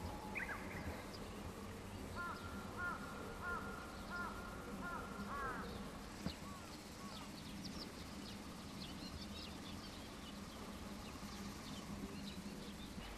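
Birds calling in the open: a run of about half a dozen repeated arched call notes in the first half, then scattered thin, high chirps, over a faint steady low hum.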